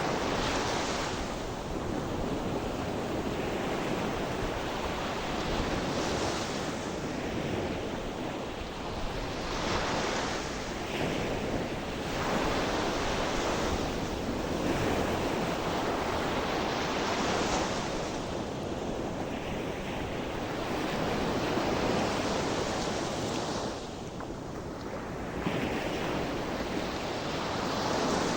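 Sea waves breaking on a shore, a continuous wash of surf with a swell of breaking water every three to five seconds.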